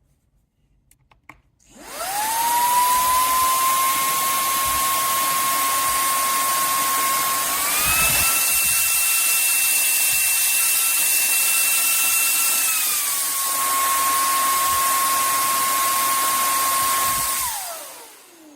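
Cordless handheld vacuum cleaner switched on, its motor spinning up to a steady high whine with a rush of air. About six seconds in it steps up to a higher pitch, as if switched to its stronger suction setting, drops back to the lower setting about five seconds later, and near the end is switched off, the whine falling as the motor winds down.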